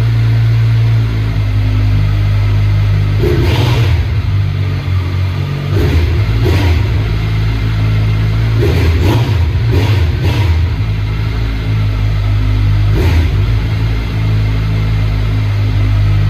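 2021 Kawasaki Z900's inline-four idling through a replica Akrapovic titanium exhaust with its baffle removed, blipped up in a series of short throttle revs that fall straight back to idle.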